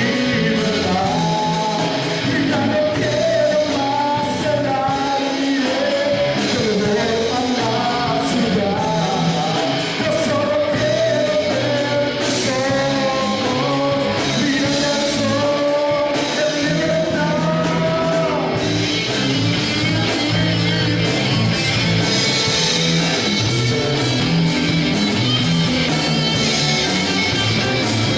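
Rock band song with a sung lead vocal over guitar; about two-thirds of the way through the singing stops and a fuller instrumental passage led by guitar takes over.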